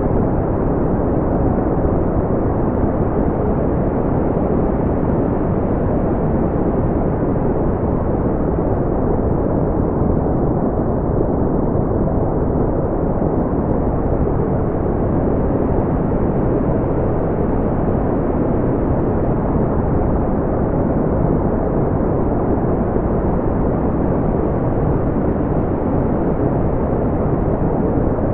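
Steady electronically generated brown noise: a deep, even hiss weighted toward the low end, with no highs, unchanging throughout.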